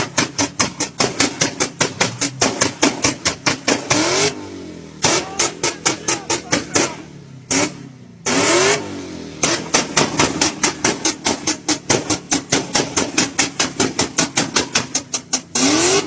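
BMW engine held on a two-step rev limiter, its exhaust popping and banging in a fast even rattle of about six bangs a second. The rattle breaks off a few times for short revs that rise in pitch.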